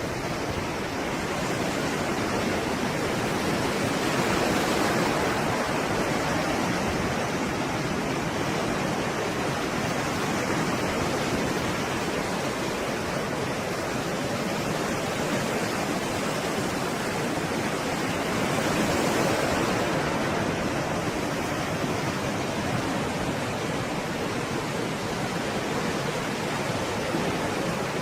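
Stormy sea surf: an unbroken wash of breaking waves, swelling louder about four seconds in and again around nineteen seconds.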